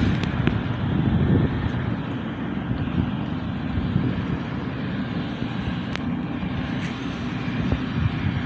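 Steady low rumble of a motor vehicle running, with a faint click about six seconds in.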